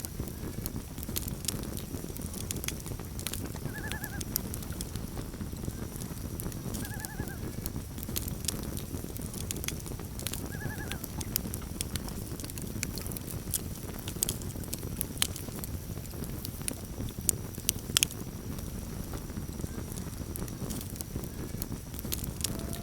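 Campfire crackling and popping over a steady low rumble of burning, with sharp snaps scattered throughout and a louder pair of pops about eighteen seconds in. Three short wavering calls sound about three seconds apart in the first half.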